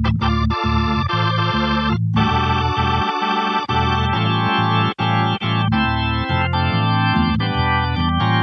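Nord Electro 6D stage keyboard playing a drawbar-organ sound: sustained full chords over a moving bass line, with a couple of short breaks between phrases.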